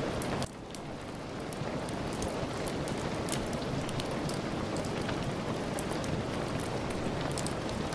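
Steady rain falling, an even hiss with many small sharp ticks of drops. About half a second in the sound drops abruptly and swells back up over the next second.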